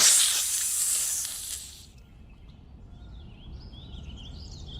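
Loud snake hiss lasting about two seconds and cutting off abruptly, followed by quieter forest ambience with birds chirping.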